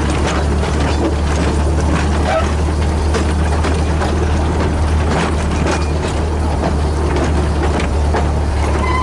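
A model garden-railway train running, with irregular clicks from the wheels and track over a steady low rumble and hiss.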